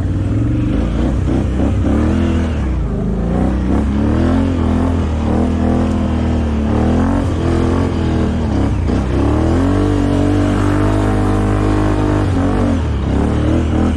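ATV engine running under changing throttle, its pitch rising and falling again and again over a steady low drone.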